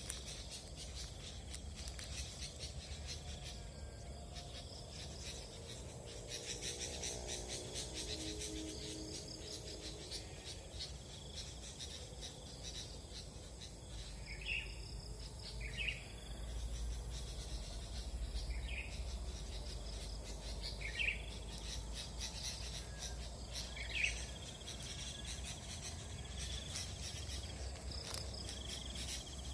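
Sooty-headed bulbuls giving a handful of short call notes, spaced a few seconds apart in the second half, over a steady chorus of chirring insects.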